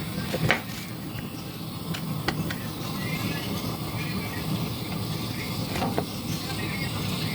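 Steady low hum of kitchen background noise, broken by a few sharp clicks and knocks from handling utensils and dough, three of them standing out.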